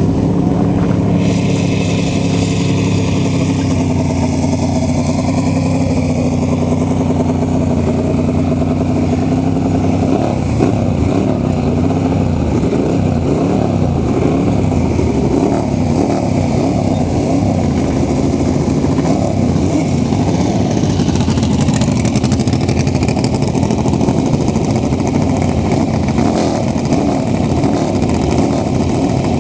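Several classic superbike engines running on a starting grid. They idle steadily at first, then from about ten seconds in several are revved up and down over one another.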